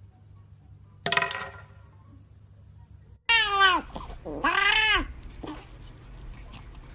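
Cat meowing: one short meow about a second in, then two longer, louder meows, the first falling in pitch and the second rising and then falling.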